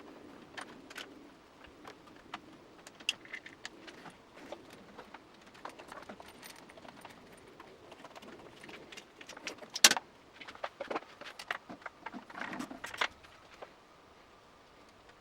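Hand tools and small metal parts clinking and clicking in irregular bursts while a motorcycle handlebar is worked on. One sharp, loud click comes about ten seconds in.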